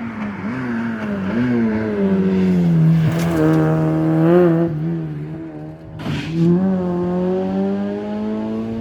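Rally car engine at high revs: the pitch drops as the car slows for a corner, then holds. About six seconds in there is a brief sharp burst of noise, and the engine climbs steadily again as the car accelerates away.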